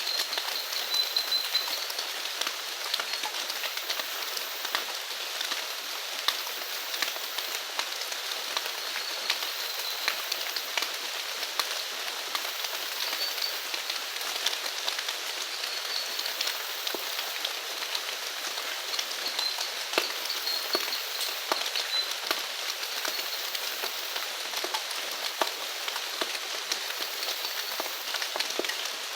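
Steady rain falling, a dense patter of individual drops hitting surfaces, with faint high chirps repeating every second or two.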